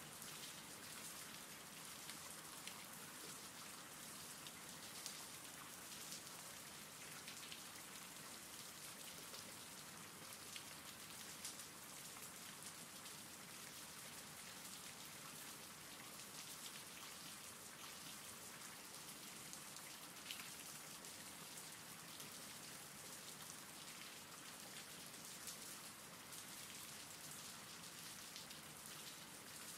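Faint, steady rain falling, an even hiss dotted with small drop ticks.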